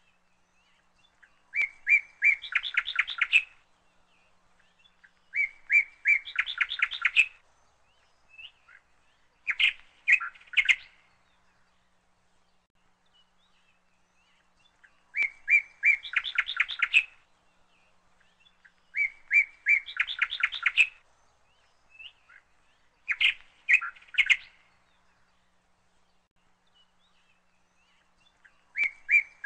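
Songbird singing: short phrases of a couple of clear notes running into a fast trill, repeated about every two to four seconds with quiet gaps between.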